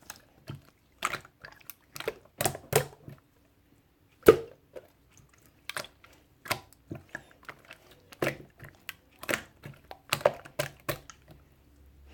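Close-up eating sounds: irregular crunchy bites and chewing, a sharp crackle every half second to a second with short pauses between.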